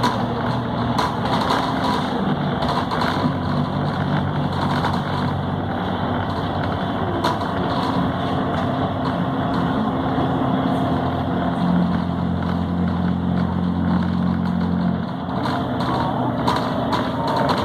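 Volvo B7RLE city bus's diesel engine running under way, heard from inside the cabin. Its note shifts pitch a few times and dips briefly about fifteen seconds in, with short rattles throughout.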